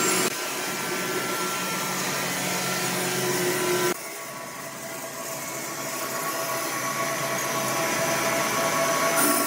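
Woodworking machinery running with a steady mechanical hum and whine. The sound changes abruptly about a third of a second in and again near four seconds.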